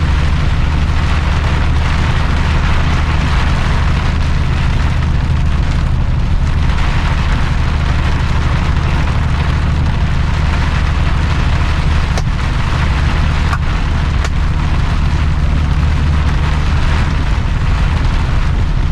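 Heavy rain pounding on a truck cab, a loud steady roar, over the truck's engine running steadily.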